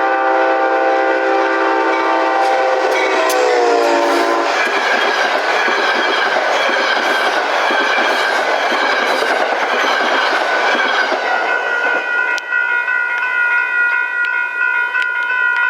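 A train sounds its horn as it approaches and passes, the horn chord dropping in pitch as it goes by about four seconds in. Then the train rushes past with wheels clattering on the rail for several seconds. A steady high-pitched tone continues through it all.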